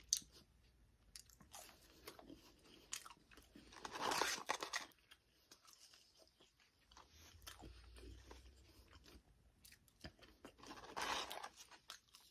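Close-up mouth sounds of a person chewing Burger King French fries: soft wet clicks of chewing throughout, with two louder crunches, about four seconds in and near the end.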